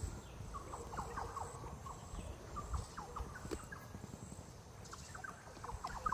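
Birds chirping: a scattered run of short, quick, falling chirps, with a faint steady high insect drone and a low rumble beneath.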